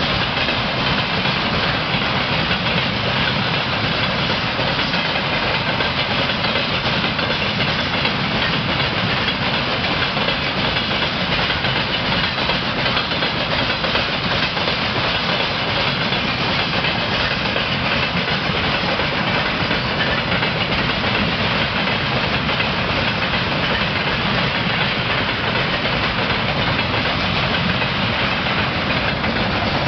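Freight train of tank cars rolling past, a steady rumble and rattle of wheels on the rails.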